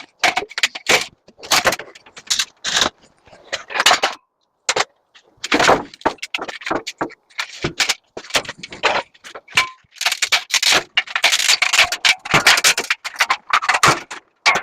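Scrap metal being handled: irregular clanking, rattling and scraping of metal pieces being moved and tossed, with a short pause a little after four seconds in.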